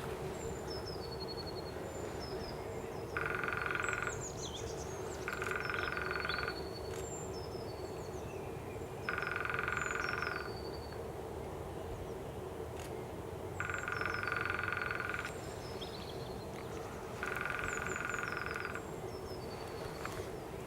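Lesser spotted woodpecker drumming on a branch: five even rattling drum rolls, each about a second and a half long, a few seconds apart. Other small birds sing thinly behind it.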